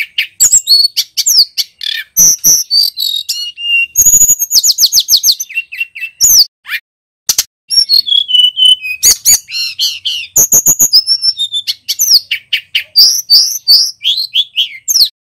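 Male tledekan gunung singing a loud, fast run of varied whistles, trills and sharp chirps, with short pauses; it cuts off abruptly near the end.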